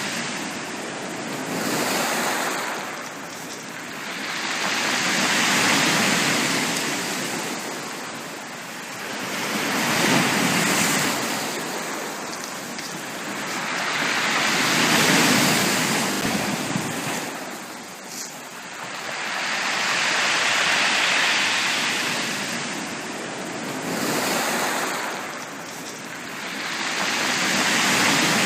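Sea waves breaking and washing up a beach. The surf swells and falls away in a slow rhythm, about once every four to five seconds.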